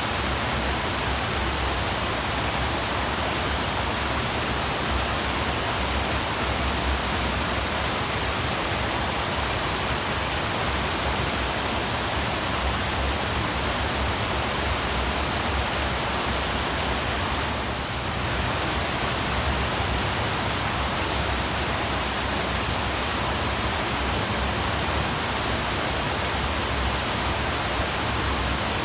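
Waterfall: a steady, even rush of falling water, dipping briefly once a little past halfway.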